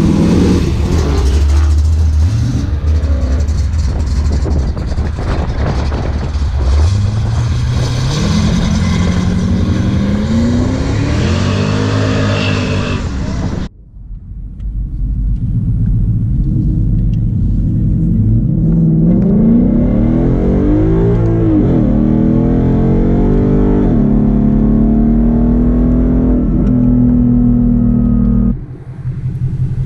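Car engines idling and revving, the engine note climbing and falling in pitch several times. The sound breaks off abruptly about halfway through and again near the end, and another car's engine picks up after each break.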